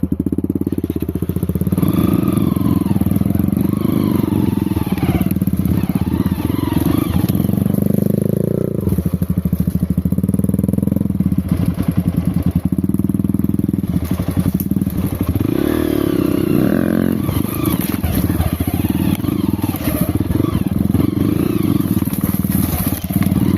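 Off-road motorcycle engine running and revving up and down, its pitch rising and falling about a third of the way in and again past the middle.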